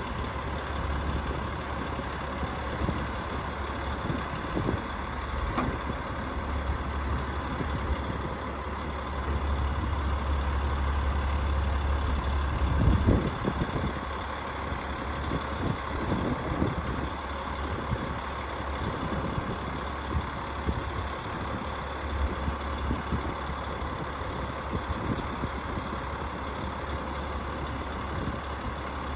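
HVAC rooftop unit running: a steady mechanical hum with a constant low drone and steady higher tones, and a brief louder bump about 13 seconds in.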